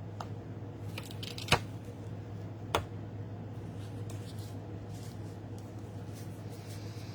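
Handling of card-making supplies: two sharp clicks about a second apart, then light rustling, over a steady low hum.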